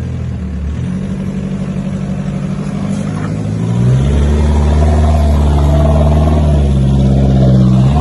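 Toyota Prado 150's engine working under load through mud. The revs rise about four seconds in and are held higher and louder, then drop near the end.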